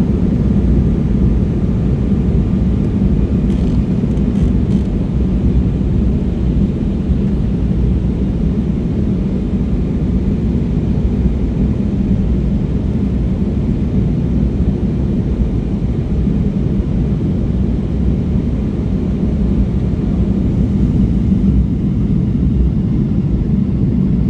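Steady low rumble inside the cabin of an Embraer E175 regional jet in flight, from its turbofan engines and the airflow, unchanging throughout.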